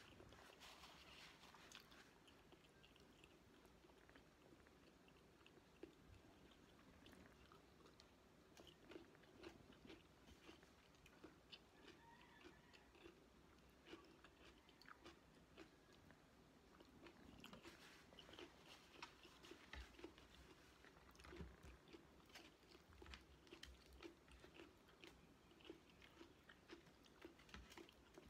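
A person chewing and biting food, heard as faint, frequent short mouth clicks that grow busier in the second half.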